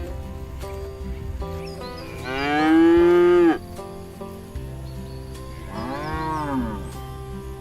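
Cattle mooing twice: a loud, long moo that rises and then holds, and a few seconds later a shorter moo that rises and falls. Background music plays under them.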